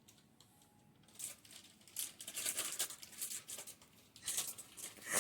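Packaging rustling and crinkling in irregular short bursts, starting about a second in.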